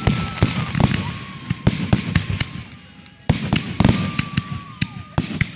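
Fireworks going off: a dense run of sharp bangs and crackles that thins to a brief lull nearly three seconds in, then a sudden loud new volley.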